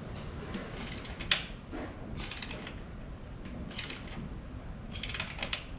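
Irregular metallic clicks and clinks of a hand wrench working a stiff bolt, with one sharp click about a second and a half in.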